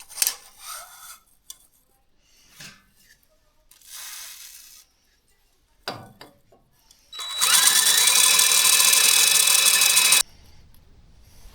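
Power drill spinning a small cylinder hone in a motorcycle cylinder bore for about three seconds, its pitch rising as it spins up, then cutting off suddenly: honing metal from the bore so the piston will fit. Before it, scattered clicks and scrapes of metal parts being handled.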